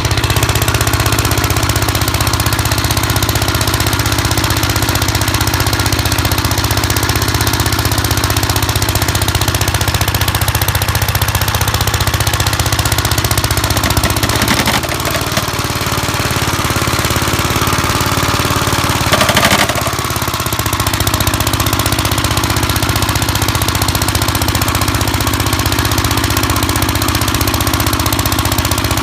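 1959 Gravely Model L tractor's single-cylinder engine running steadily with a throbbing beat, driving a snow blower attachment. The engine note sags briefly about halfway through and changes again a few seconds later before settling back.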